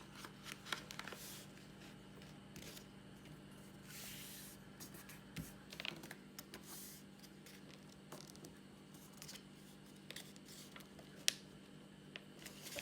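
Square sheet of paper being folded and creased by hand: faint rustling and scraping with scattered light ticks, one sharper tick near the end, over a steady low hum.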